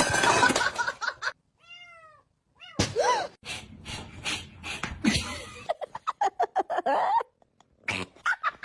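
Domestic cat meowing: a few short arched calls about two seconds in, then a longer meow that rises and falls about three seconds in. Scattered short knocks follow later.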